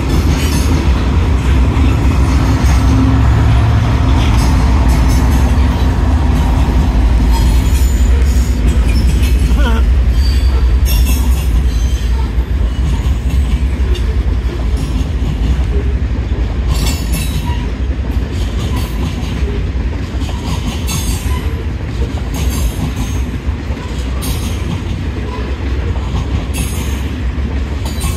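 Freight train of covered hoppers and tank cars rolling past: a steady low rumble of the cars, with the wheels clacking over rail joints, the rumble easing a little after the first ten seconds or so.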